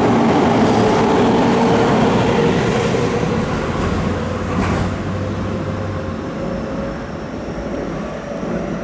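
Keihan electric train running through the station, its motor whine rising slightly in pitch as the rumble slowly fades: a train pulling away.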